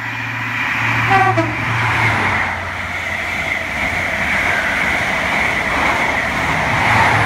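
Express passenger train running through the station at speed, giving a short horn toot about a second in, followed by the steady rush of the carriages passing close by.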